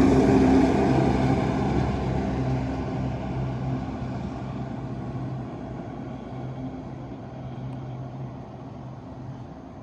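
A heavy vehicle's engine running loud as it passes close by, then fading steadily as it drives away.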